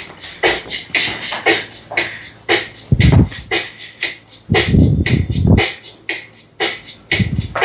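A song with vocal percussion and a steady clicking beat, with deep bass hits about three seconds in, again from about four and a half to five and a half seconds, and near the end, played by a fridge-magnet mini vinyl-disc music player.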